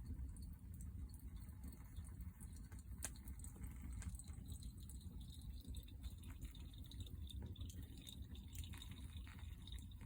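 Wood fire crackling: scattered small pops and ticks, one sharper pop about three seconds in, over a steady low rumble.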